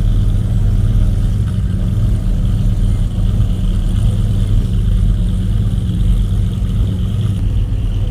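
Car engine running with a deep, steady low rumble.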